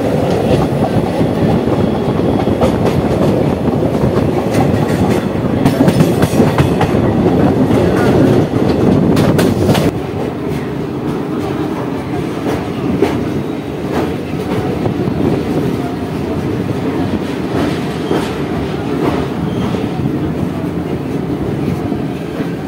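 Express passenger train running at speed, heard from the open coach doorway: a dense rumble of wheels on rail with clickety-clack from the rail joints. About halfway through, the rumble drops somewhat and separate clacks stand out more.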